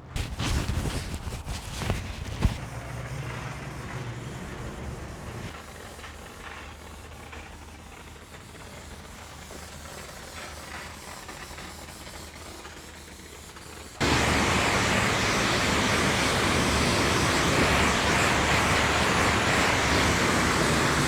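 Yamaha XSR900 three-cylinder engine running at low revs, with a sharp click about two and a half seconds in. About fourteen seconds in, the sound jumps abruptly to a loud, steady rush of wind noise over the motorcycle.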